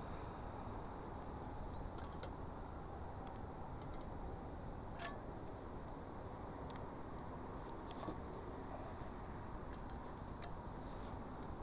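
Campfire crackling: scattered sharp pops and snaps, about one a second, over a faint steady hiss.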